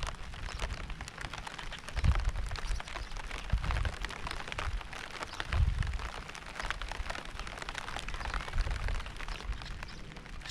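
Steady rain, with many individual drops striking distinctly through a continuous hiss. Low rumbles swell up and die away several times.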